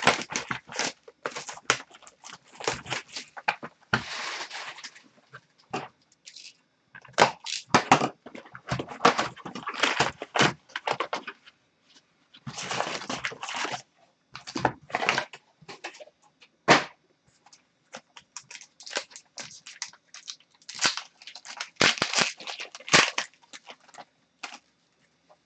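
Crinkling and tearing of card-pack wrappers as a box of hockey cards is opened, with cards being handled. The sound comes in irregular bursts with short pauses.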